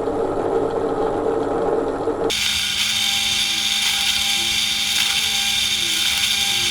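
Pillar drill running with a 5 mm bit, drilling holes into wood. About two seconds in the sound switches abruptly from a lower, duller noise to a bright, hissy whine over a steady motor hum.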